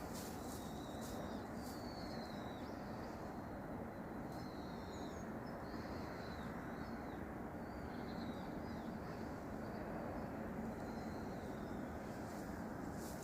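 Birds chirping faintly and intermittently in short, high calls over a steady outdoor background noise.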